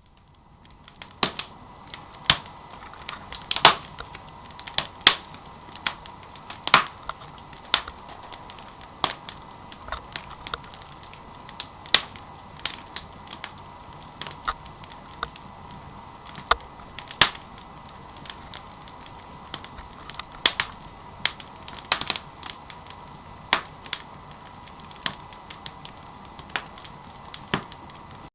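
Wood campfire crackling, with sharp pops at irregular intervals over a steady low hiss.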